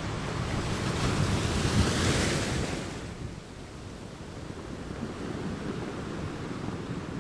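Sea water sloshing and wind buffeting the microphone over choppy open water. A louder rush swells about a second in, lasts about two seconds, then falls back to a steadier, quieter wash.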